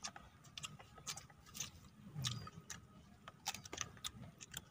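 Several people chewing crunchy food, irregular crisp crunches and clicks several times a second, faint.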